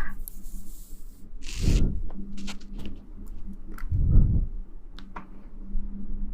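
Close-miked ASMR rustling and rubbing right against the microphone, with two heavy, soft swells about two and a half seconds apart and scattered faint ticks, over a faint steady hum.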